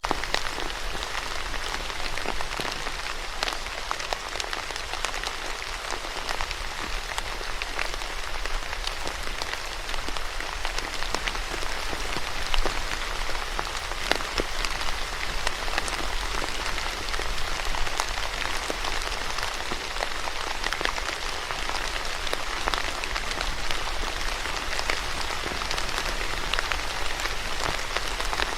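Steady rain falling on a surface, a dense hiss with many individual drops pattering through it.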